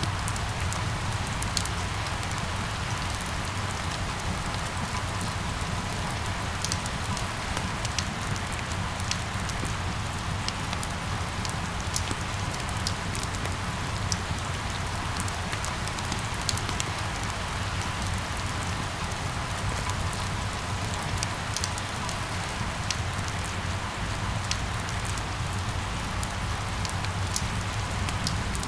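Steady rain falling, with scattered sharp ticks of single drops over an unbroken hiss and a steady low rumble underneath.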